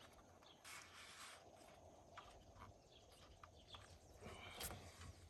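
Near silence: a faint background hiss with a few light scattered clicks and taps, as of small handling noises.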